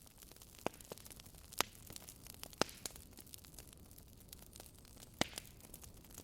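Wood fire crackling in a fireplace: irregular sharp pops and snaps, a few louder ones standing out, over a soft steady hiss.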